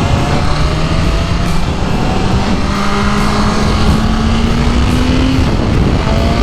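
BMW S1000RR inline-four engine running steadily as the bike rides along, its pitch climbing slowly and dipping briefly about five seconds in, under a steady rush of wind noise.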